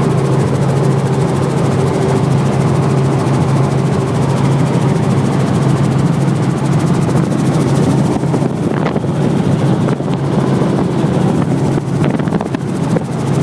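Helicopter engine and rotor running steadily, a constant loud hum with a fast even rotor chop.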